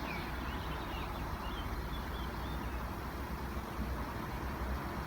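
Steady low outdoor rumble with a few faint, high bird chirps in the first couple of seconds.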